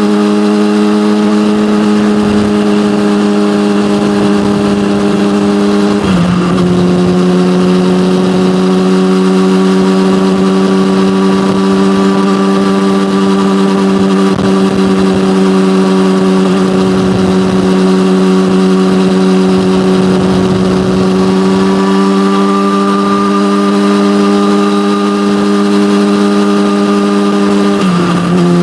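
Yamaha motorcycle with an SC-Project aftermarket exhaust running at a steady engine speed. Its note drops suddenly in pitch twice, about six seconds in and again near the end, as it shifts up a gear.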